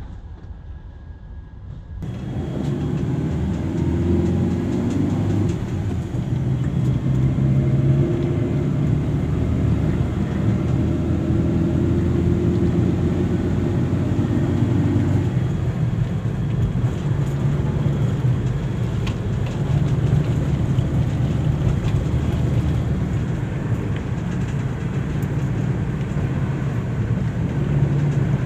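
Steady low rumble of a moving vehicle, setting in about two seconds in.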